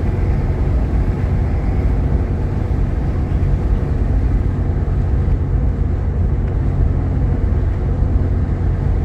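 Steady low rumble of engine and road noise from a Jeep Grand Cherokee Laredo with a 3.7 L V6, driving at an even pace.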